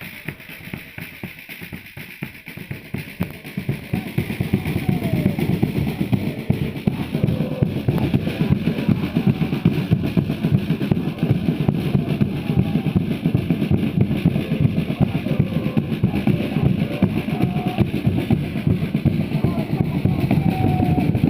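Football supporters' drums beating a fast, dense rhythm under a crowd singing a chant; the drumming comes in loud about four seconds in.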